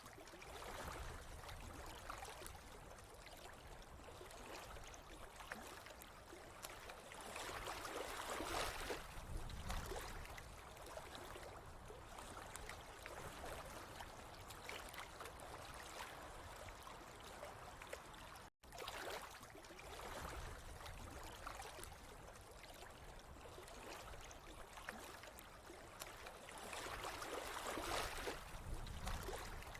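Running water trickling steadily, with gentle swells, one about a third of the way in and another near the end, and a momentary cut to silence about two-thirds of the way through.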